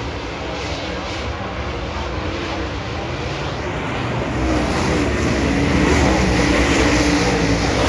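Dirt track race cars' V8 engines running hard on the track, several at once with wavering pitch, getting louder about halfway through.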